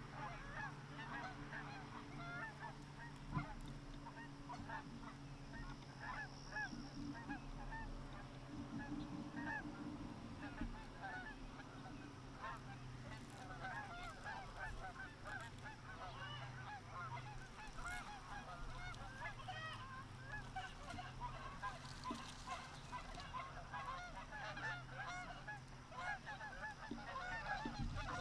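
A flock of Canada geese honking, many short overlapping calls that go on without a break, fairly faint.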